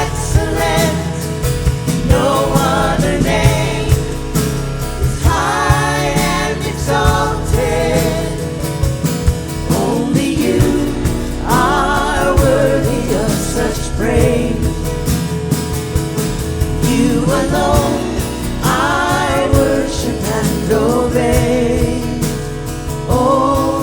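Live worship band music: sung vocal phrases every few seconds over steady accompaniment with a beat.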